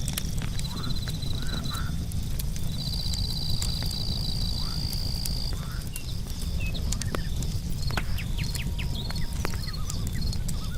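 Night ambience of crickets trilling, one long steady trill a few seconds in, with frogs giving short calls and a campfire crackling now and then over a steady low rumble.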